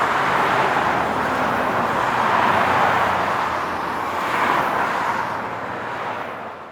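Highway traffic: a steady rush of tyres and engines, swelling as vehicles pass about two and a half and four and a half seconds in, then fading out near the end.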